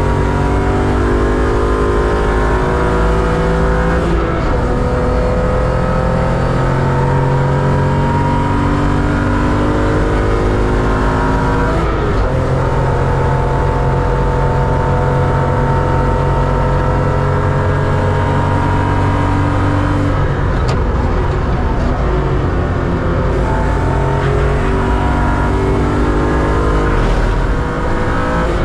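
BMW 325 Cup race car's straight-six engine heard from inside the cabin, pulling hard through the gears at racing pace. The pitch climbs steadily, then drops at each shift, about every eight seconds.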